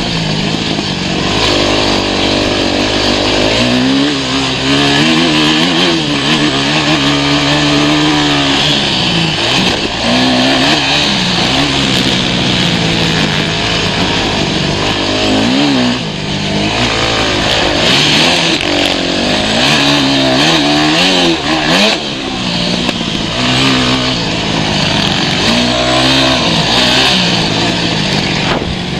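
Motocross dirt bike engine revving, its pitch climbing and dropping again and again every few seconds as the rider opens and closes the throttle.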